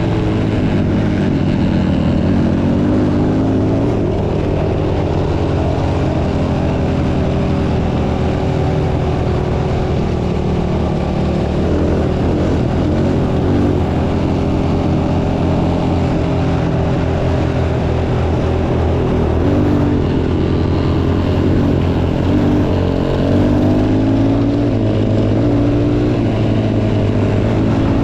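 Off-road motorcycle engine running under load, its pitch rising and falling as the throttle is worked.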